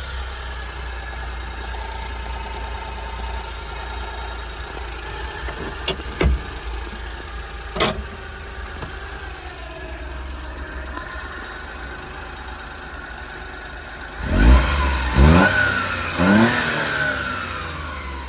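1996 Suzuki Carry kei truck's small three-cylinder engine idling steadily, with a few sharp clicks in the first half. About two-thirds of the way in it is revved three times in quick blips, each rising in pitch, then it settles back toward idle.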